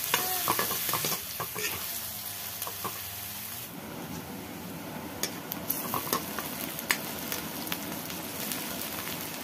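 Chopped onions sizzling in hot oil in a metal kadai, with a metal ladle scraping and clicking against the pan as they are stirred. The scraping comes near the start and again from about five seconds in, with the steady sizzle between.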